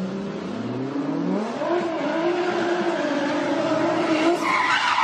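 Car engine accelerating hard, its pitch climbing, dipping at a gear change about a second and a half in, then holding at high revs. Near the end a harsh, higher noise sets in over it.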